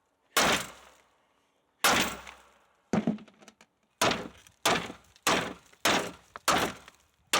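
Sledgehammer striking a steel frame part eight times, each blow with a short metallic ring, the blows coming faster after the first three: knocking loose a riveted piece whose rivets have been heated with a torch.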